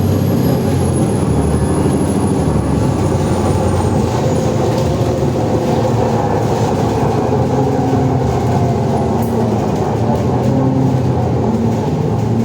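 Alexander Dennis Enviro400 double-decker bus under way, heard on board: the Cummins ISLe5 diesel and a loud drive axle whine run steadily. A high turbo whistle falls in pitch and fades over the first few seconds.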